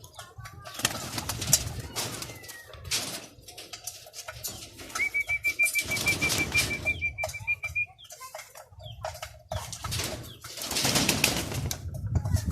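Young racing pigeons flapping their wings in repeated short bursts. A high, rapidly pulsing tone holds steady for about three seconds midway.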